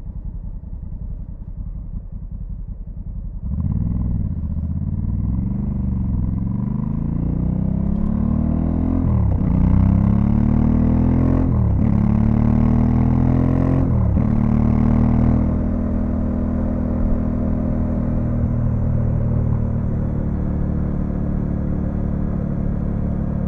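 Honda Africa Twin CRF1100L's parallel-twin engine running at low revs, then about three and a half seconds in the throttle opens and the bike pulls away. It accelerates through the gears, the pitch rising and dropping back at three upshifts, then settles into a steady cruise.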